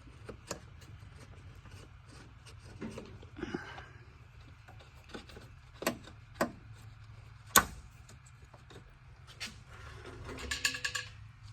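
Scattered clicks and metallic clinks of hand tools and parts being handled while working under a car, over a steady low hum; one sharper knock stands out about seven and a half seconds in, and a quick run of clinks comes near the end.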